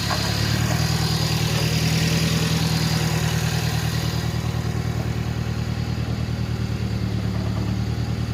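Vehicle engine idling steadily with an even pulsing beat, getting a little louder about half a second in.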